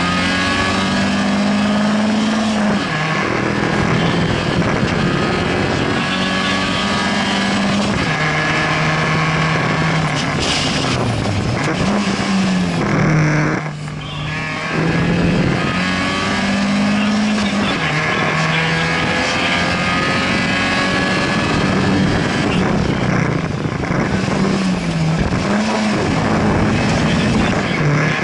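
Fiat Cinquecento rally car's engine heard from inside the cabin, driven hard: its pitch climbs under acceleration and falls back with each gear change, several times over. About halfway through it drops briefly as the driver lifts off and brakes, then pulls hard again.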